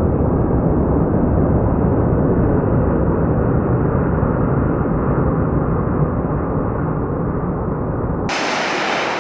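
Jet airliner engines heard as a loud, steady low rumble. About eight seconds in it cuts abruptly to a thinner, hissier sound.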